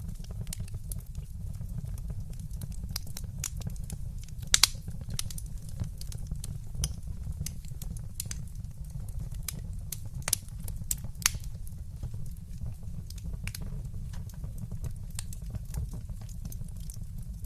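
Wood fire crackling in a fireplace: scattered sharp pops and snaps over a steady low rumble. A loud double pop comes about four and a half seconds in, and a few more strong snaps come around ten to eleven seconds.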